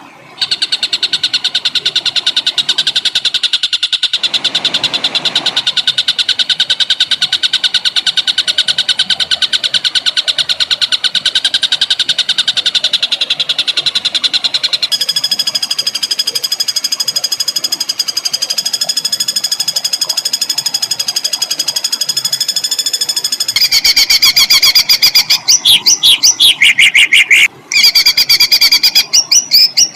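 Songbird song, a very rapid rolling trill of harsh repeated notes. It shifts to a higher-pitched trill about halfway through. From about twenty-four seconds in it breaks up into louder, choppier notes with a short pause.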